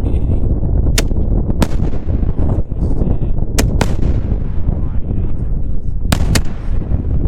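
7-inch aerial firework shells bursting: six sharp bangs in three close pairs, over a continuous low rumble.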